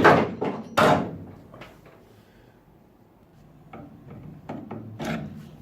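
Two sharp knocks less than a second apart, then scattered quieter clicks and taps.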